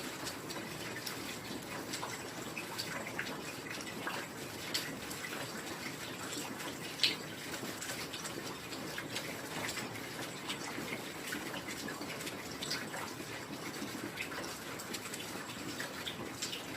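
Steady heavy rain, an even hiss, with many scattered close drips and splashes; one sharper drop stands out about seven seconds in.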